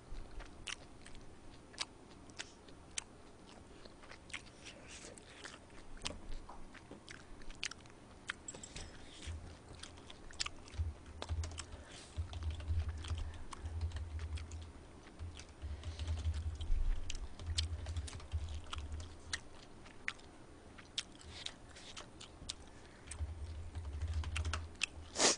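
Close-miked chewing of a mouthful of spicy stir-fried pork and kimchi with rice: wet mouth clicks and smacks throughout, with a low rumble in stretches from about ten seconds in.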